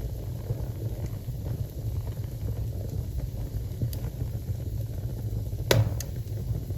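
Wood fire burning in a fireplace: a steady low rumble of flames with a few sharp crackles, the loudest two close together near the end.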